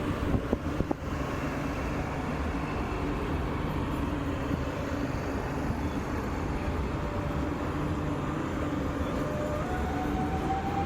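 Electric train moving at a station: a steady rumble with a held hum, a few sharp clicks about half a second to a second in, and a whine that starts rising near the end as the traction motors speed up.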